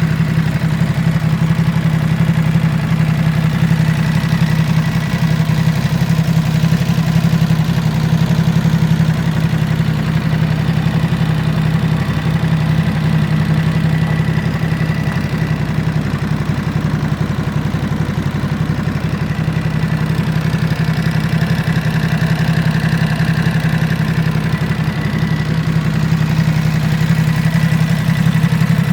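Ducati SuperSport S 950's 937 cc Testastretta L-twin engine idling steadily.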